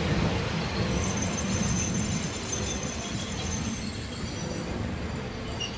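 Passenger train running past over a level crossing: a steady low rumble, with a faint high-pitched metallic squeal coming in about a second in.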